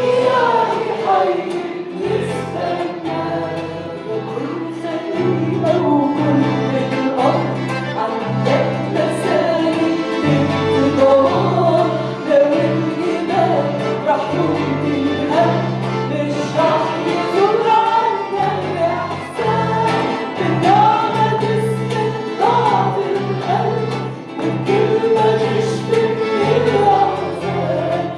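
Voices singing an Arabic worship song together with a band, over steady sustained bass notes that change every second or two.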